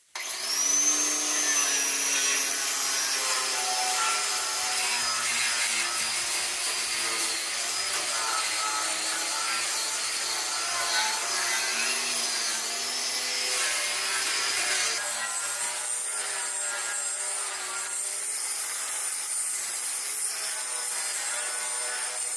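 Angle grinder spinning up and then grinding rust off a steel truck frame. Its motor pitch wavers as the disc is pressed against the metal.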